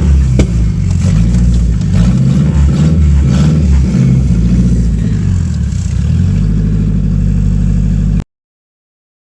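Twin-turbo Honda Integra four-cylinder engine running and revving, its pitch rising and falling, with a sharp crack about half a second in. It steadies near the end and cuts off abruptly about eight seconds in.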